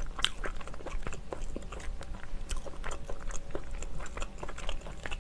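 Close-miked chewing of tough, chewy steamed clam meat: a steady run of soft wet clicks and smacks from the mouth.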